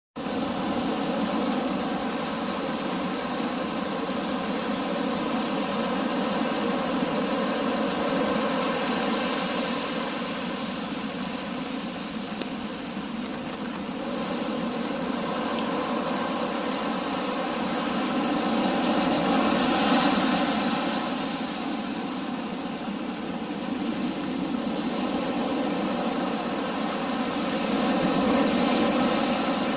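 Wind and surf of a stormy sea, a continuous rushing roar that swells louder every several seconds, with a steady hum underneath.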